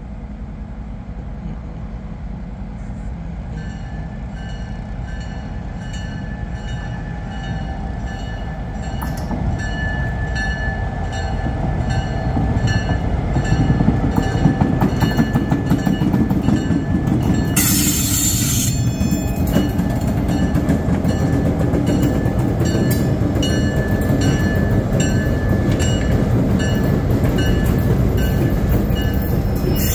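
Kansas City Southern freight train approaching and passing close by. The rumble builds to its loudest as the diesel locomotive goes by about 13 seconds in, then carries on as the freight cars roll past. A bell rings about twice a second from a few seconds in, and a short loud hiss comes about 18 seconds in.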